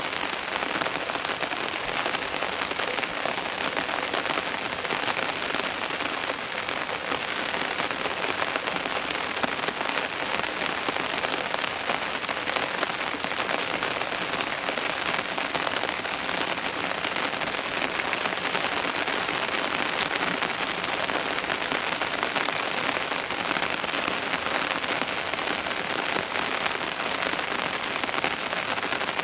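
Steady rain falling on a surface, a dense even hiss with fine patter of individual drops.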